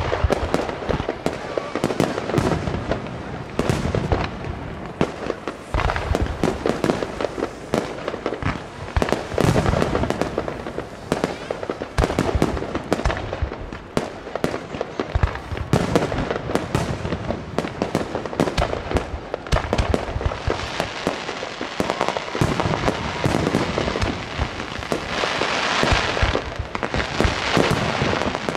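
Professional fireworks display: aerial shells bursting one after another in a dense, irregular series of bangs. Near the end a steadier hissing noise rises under the bangs.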